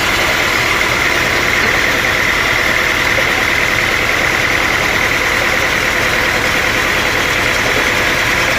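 Sawmill machinery running steadily with a constant mechanical drone and a steady high whine.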